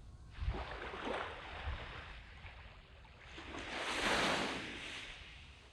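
Sea waves breaking and washing up a sandy beach: a smaller wave about half a second in, then a louder one building to a peak about four seconds in and fading away.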